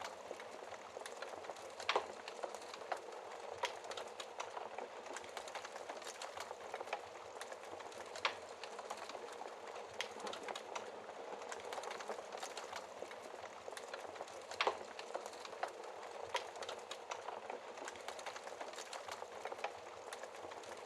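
Wood fire crackling behind a glass fireplace shield: a steady hiss with scattered small crackles and a few louder pops, about 2, 8 and 15 seconds in.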